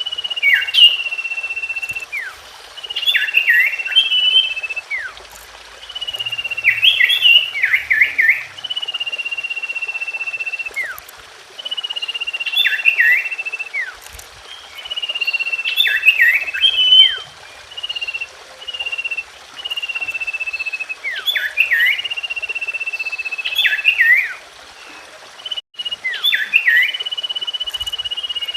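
Common iora song: a long, slightly falling whistle held for about a second and a half, then a quick run of sharp downward-sweeping notes, the phrase repeated about every three to four seconds over a steady hiss.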